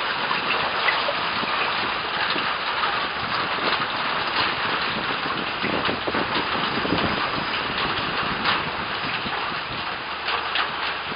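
Heavy rain falling steadily, an even hiss of water with many small splashes through it.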